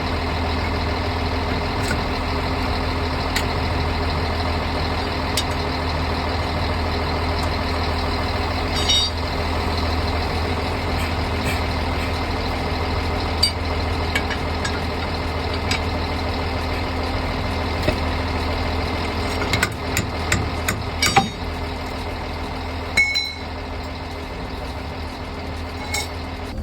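Large diesel engine idling steadily, with a few sharp clicks and knocks, mostly between about 20 and 23 seconds in.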